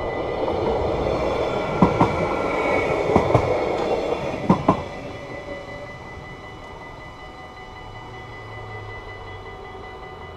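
A GTW-E electric train running past, with three sharp double clicks as its wheels cross rail joints; the running noise dies away about five seconds in. Steady ringing from the level-crossing bells runs underneath it.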